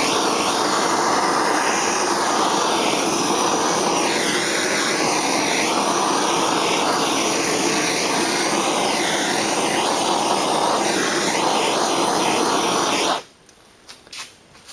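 Propane torch flame roaring steadily while it is swept over faded plastic fender trim to bring back its black colour; the roar cuts off suddenly near the end.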